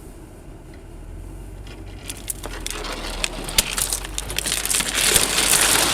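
Ice crunching and crackling under a Jeep's tyres, building in density and loudness over the last few seconds, over the vehicle's low running hum.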